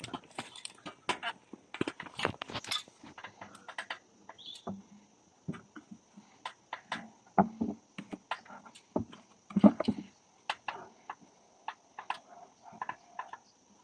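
Irregular knocks, clicks and scrapes of a wooden bee catch box being handled and taken down from its tree stand, with a couple of louder thumps in the middle. A faint steady high-pitched hiss runs underneath.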